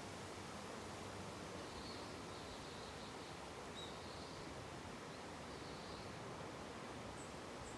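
A steady, even wash of natural ambience (wind and water) with faint, short bird chirps scattered through it, a few higher-pitched ones near the end.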